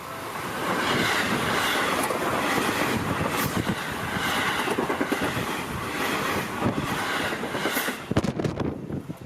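A Seibu Ikebukuro Line train passes close by, its wheels clattering over the rail joints. The noise builds over the first second and holds steady, then ends in a quick run of clacks and drops away near the end.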